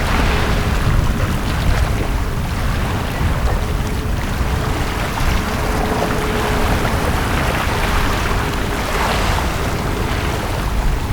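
Sea waves washing onto a beach over a steady low rumble, the wash swelling and fading every few seconds. A faint steady hum comes and goes beneath it.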